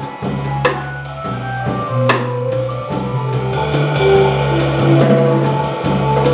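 Live jazz organ trio playing: the organ holds long bass notes and shifting chords while a drum kit keeps time, with cymbal crashes about a second in and again about two seconds in.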